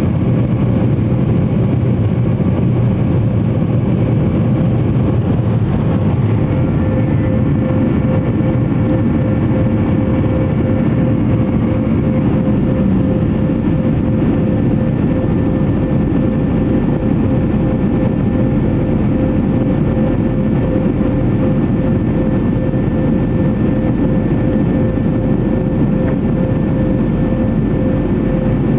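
Boeing 737-500's CFM56-3 turbofan engines running steadily, heard as a loud, even noise with a constant hum-like tone.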